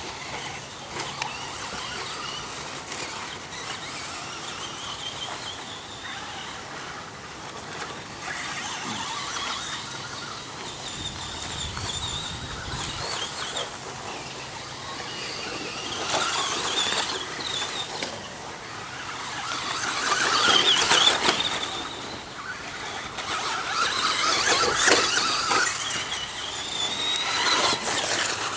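Radio-controlled stadium trucks racing, their high-pitched whine rising and falling in pitch as they speed up and slow down. It swells loudest as they pass close, about two-thirds of the way in and again near the end.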